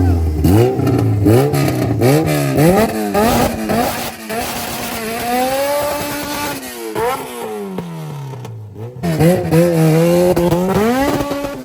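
A car engine revving hard in quick repeated blips, its pitch jumping up and dropping back about twice a second. It then gives one longer rev that rises and falls away slowly before settling and climbing again near the end.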